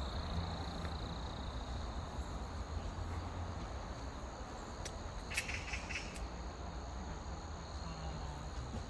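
Insects trilling steadily in high, thin tones over a constant low rumble, with a brief pulsed chirping call about five and a half seconds in.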